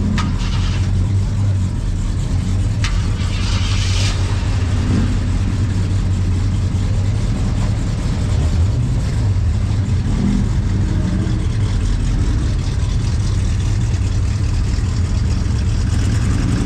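A car engine running steadily, with two short hisses in the first few seconds.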